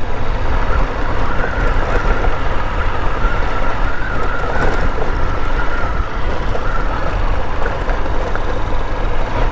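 Honda Unicorn motorcycle riding over a rocky off-road track: a steady rush of engine, tyre and wind noise, heaviest in the low end, with a faint wavering whine through most of it.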